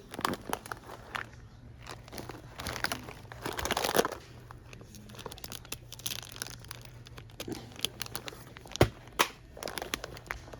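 Packaging being handled: irregular crinkling and rustling, with sharp crackles and snaps.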